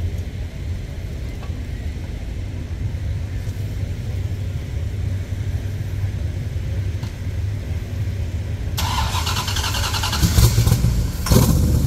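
Car engines rumbling as show cars drive past at low speed. About nine seconds in, a louder, harsher engine sound comes in, peaking twice near the end.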